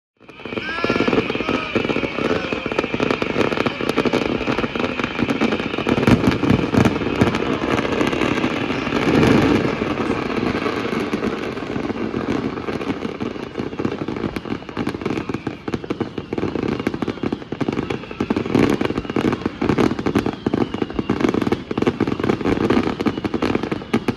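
Fireworks display: a dense, unbroken barrage of crackling and popping, with heavier bursts about six and nine seconds in.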